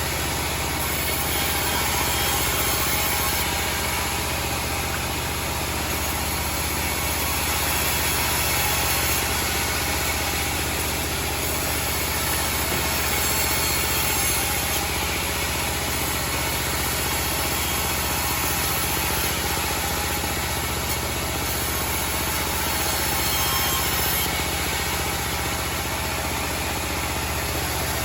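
Homemade band sawmill running, a steady mechanical drone that holds even throughout.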